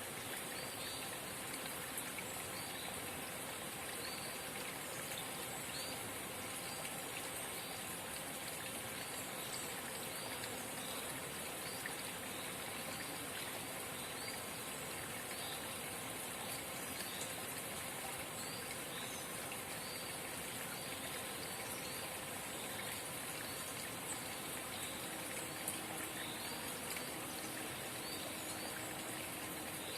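A forest spring babbling steadily. Short high notes repeat faintly every second or two.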